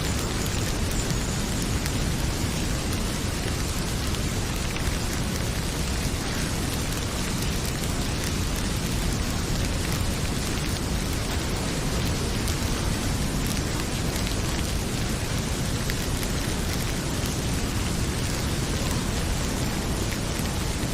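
Heavy rain pouring steadily, with the small scattered snaps and pops of a crackling wood fire in the fireplace.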